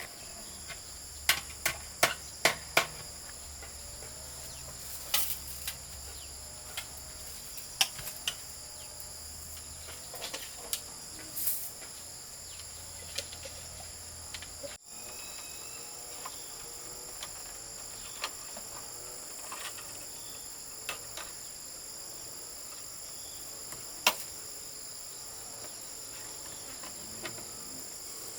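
Crickets chirring steadily in a high, even drone, with scattered sharp knocks over it: a quick run of four near the start, a few more through the middle, and one sharp knock near the end.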